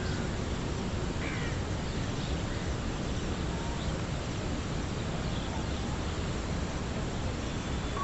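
Scattered bird calls, a few seconds apart, over a steady outdoor rushing noise.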